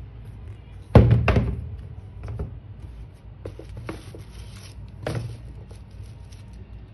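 Handling noise from a sneaker unboxing: a sharp knock about a second in, followed at once by a second and a short fade. Smaller clicks and light rustling follow, then another knock about five seconds in.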